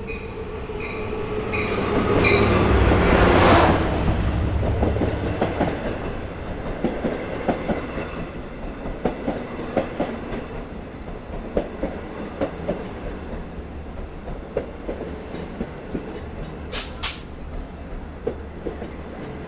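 Long Island Rail Road train drawing into the station: its EMD DM30AC diesel locomotives pass loudest about three seconds in. Bilevel passenger coaches follow, their wheels clicking over the rail joints as the train slows for its stop. A short hiss comes near the end.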